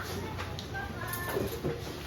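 Faint children's voices in a classroom, with no clear words.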